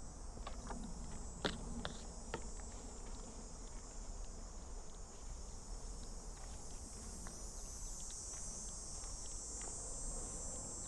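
Steady high-pitched insect chorus from summer insects, growing a little stronger near the end, with a few light ticks in the first couple of seconds.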